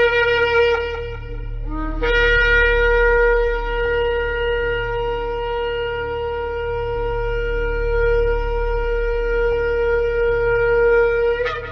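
Shofar blasts: a held note that stops about two seconds in, a short rising note, then one long steady blast of about nine seconds that breaks upward in pitch as it ends. A steady low hum runs underneath.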